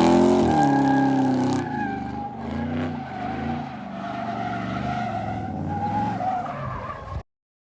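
A car engine at high revs with tyres squealing, as in a burnout or donut. The revs fall about a second and a half in, and the engine runs on lower under a steady tyre squeal until the sound cuts off suddenly near the end.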